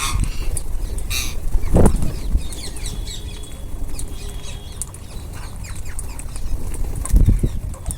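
A group of ringneck parrots chattering with short high chirps and squeaks while feeding, with three low fluttering bursts of wing flaps: one at the start, one about two seconds in, and one near the end.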